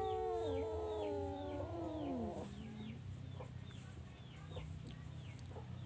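A rooster crowing: one long, drawn-out call that falls in pitch and ends about two and a half seconds in. Short high chirps repeat steadily throughout, over a low steady hum.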